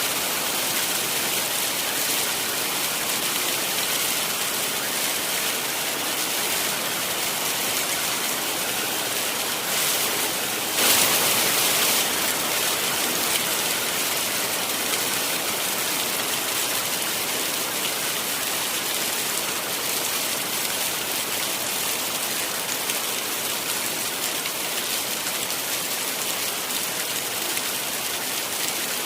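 Heavy rain falling steadily, a dense even hiss, with a brief louder surge lasting about a second, about eleven seconds in.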